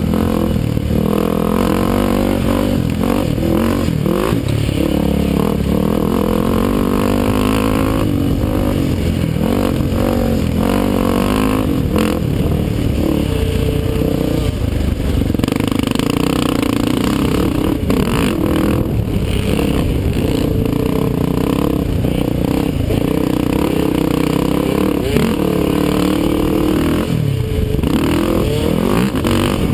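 ATV engines racing on a motocross track, revving up and falling off again and again as the riders work the throttle and shift.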